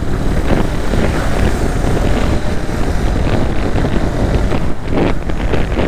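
Heavy, steady wind noise on the microphone of a moving Suzuki GSX-S150 motorcycle, over a low rumble from the ride.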